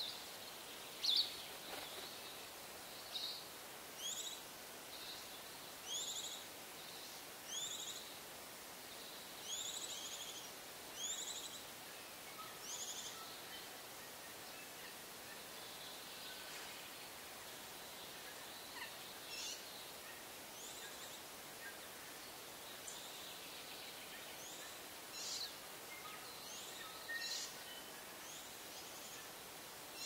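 Birds calling: short high chirps repeated every second or two through the first twelve seconds, then sparser, scattered calls over a steady background hiss.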